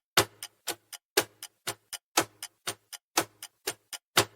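Clock-style ticking sound effect of a quiz countdown timer: a louder tick once a second with softer ticks between, counting down the time to answer.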